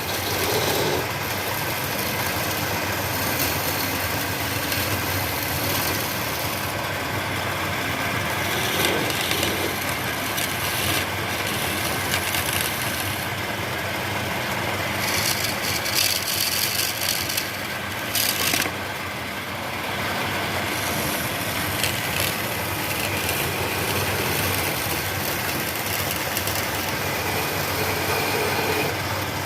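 Wood lathe running steadily, with louder, hissier stretches of cutting noise in the middle as a tool works the spinning wood.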